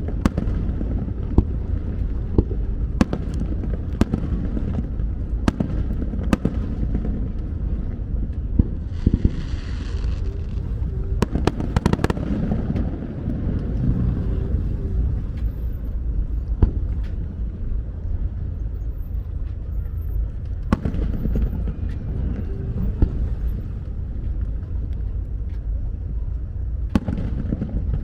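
Aerial fireworks shells bursting in a continuous low rumble, with frequent sharp bangs and crackles at irregular intervals and a brief hiss about nine seconds in.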